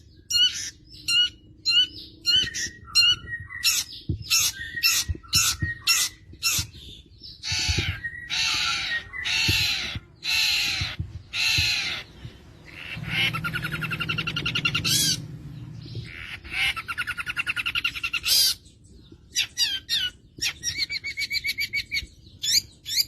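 Long-tailed shrike (cendet) singing a varied mimicking song. It opens with quick sharp chirps, then gives a row of harsh squawks, then two fast rattling trills of about two seconds each, with more chirps and a trill near the end.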